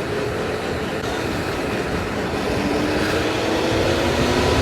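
Wind rushing over the microphone of a small riding vehicle on the move, under a motor whine that rises slowly in pitch as it picks up speed.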